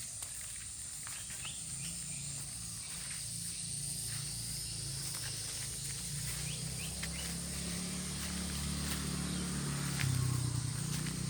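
Outdoor ambience of insects: a steady high-pitched drone with scattered faint clicks. A low engine hum builds underneath and grows louder near the end.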